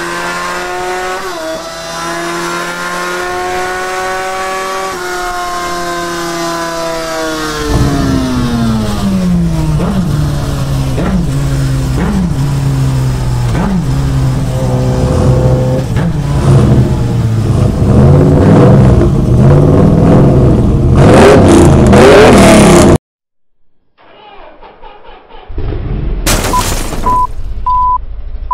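Car engine revving, its pitch rising and falling and growing louder, then cut off suddenly. After a short silence, reversing beeps sound near the end.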